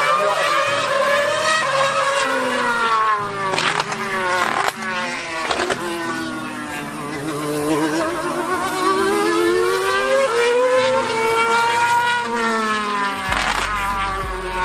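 2013 Formula One car's 2.4-litre V8 engine at high revs, climbing in pitch through a run of quick upshifts, then falling away and climbing again as it laps the circuit.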